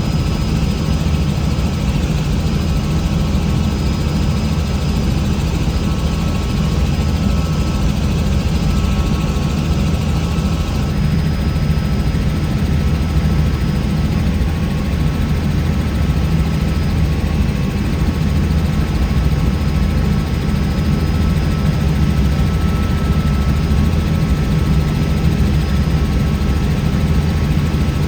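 Helicopter running steadily: a constant, loud low rotor drone with a few faint steady whining tones above it.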